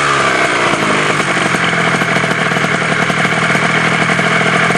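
Gilera Runner scooter's two-stroke engine breathing through a Malossi MHR Team expansion-chamber exhaust. The revs drop right at the start, then it settles into a steady idle with a rapid pulsing beat.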